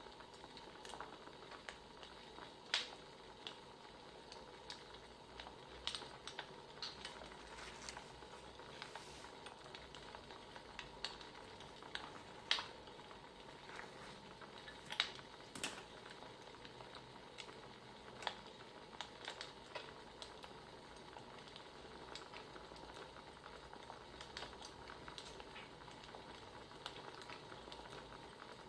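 Wood fire crackling: a steady low hiss with irregular sharp pops and snaps.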